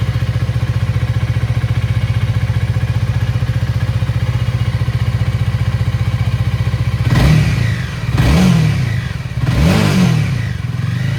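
Honda Rebel 250's single-cylinder engine idling steadily, then blipped three times from about seven seconds in, the revs rising and falling each time.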